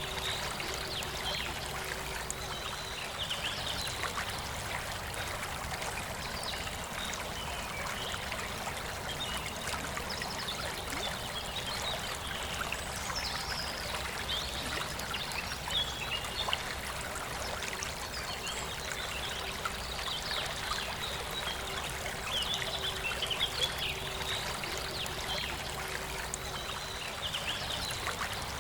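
A forest river flowing steadily, with birds singing in short high chirps that come and go over the water.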